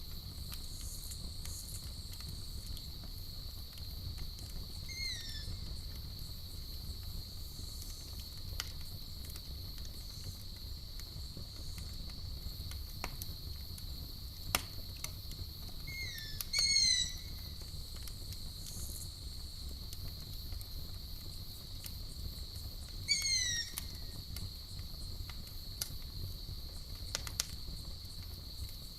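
Campfire crackling, with scattered sharp pops over a low steady rumble of burning, under a constant high cricket trill. Short falling chirping calls come in three brief clusters: about five seconds in, near the middle and again later.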